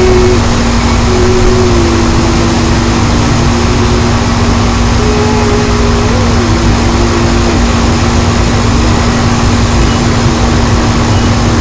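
Loud, steady rush of strong storm wind, with a steady low hum and a higher tone that wavers and breaks off now and then.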